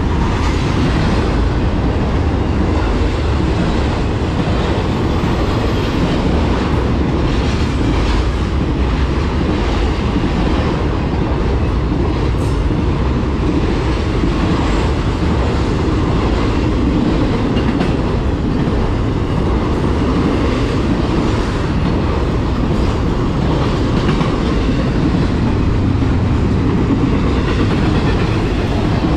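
A train's cars rolling steadily past at close range, with a constant loud rumble of wheels on the rails.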